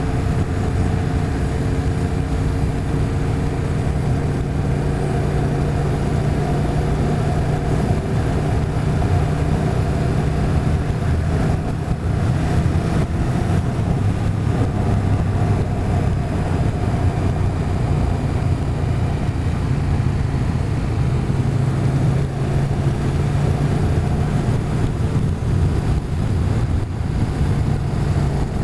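Motorcycle engine running steadily while riding at cruising speed, its pitch shifting slightly a couple of times, over road and wind noise.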